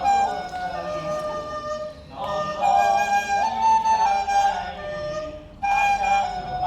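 A melody on a wind instrument, played in phrases of held and sliding notes with short breaks between them, about 2 seconds and 5.5 seconds in.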